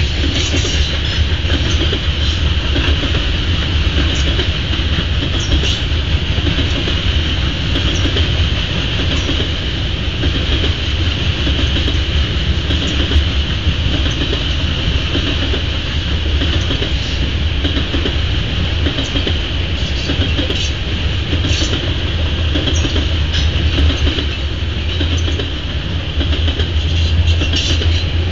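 Grain train's freight cars rolling steadily past: a low rumble and clatter of wheels over the rail joints, with a steady high-pitched tone above it.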